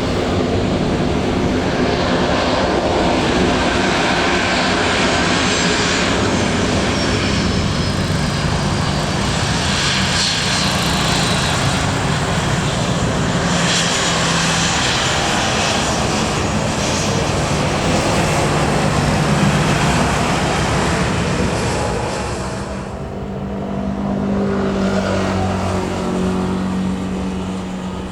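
Jet airliner passing close and low, its engines loud, with a high whine that falls in pitch as it goes by. Near the end the noise eases and a lower, steadier hum remains.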